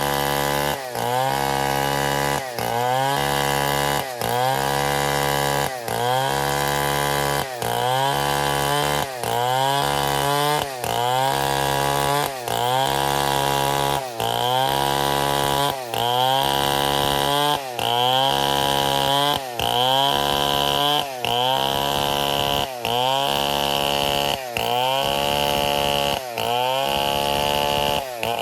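Stihl 070 two-stroke chainsaw running hard. Its engine speed dips briefly and recovers in a regular rhythm, about once every second and a half.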